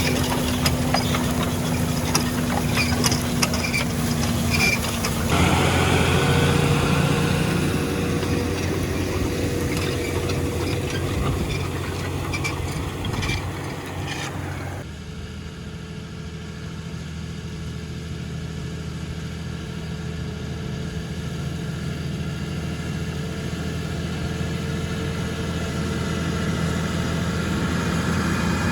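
Large Fendt farm tractor's diesel engine running steadily while ploughing. About halfway the sound suddenly turns duller and quieter, then it grows louder again with its pitch rising near the end as the tractor comes closer.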